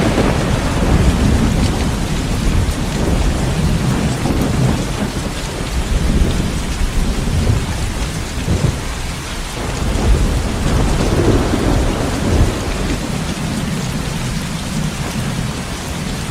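Heavy rain falling steadily with rolling thunder rumbling underneath, swelling and easing several times.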